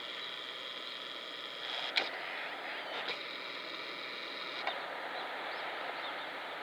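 A camera's lens motor whirring twice, each time for about a second and a half, with a few sharp clicks, over a steady background hiss. Faint short bird chirps come near the end.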